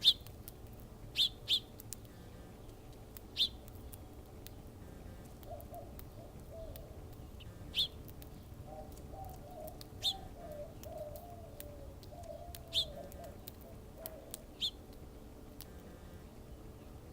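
Backyard feeder birds: short, sharp single chirps from small birds, spaced a second or several apart, with soft, low dove cooing in the middle stretch.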